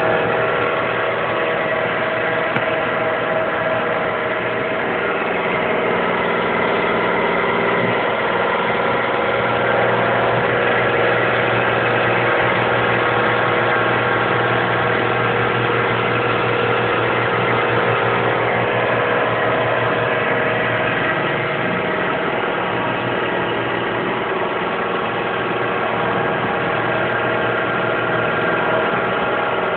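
A DIY CNC machine's motors running with a steady hum made of several held tones, unchanged for the whole stretch.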